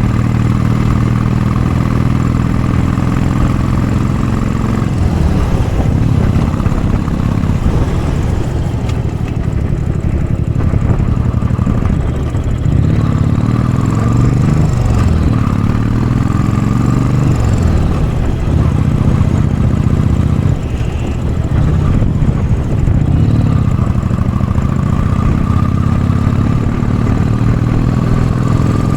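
Royal Enfield Bullet 500 single-cylinder engine running through a baffled Mass Moto Bottiglia exhaust, under load climbing a steep hill. The engine note is steady at first, rises and falls in pitch several times through the middle, then settles steady again near the end.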